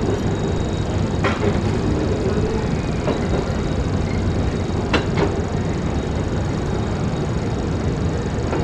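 Passenger train running with a steady rumble, broken by a few sharp clacks or knocks about a second, three seconds and five seconds in.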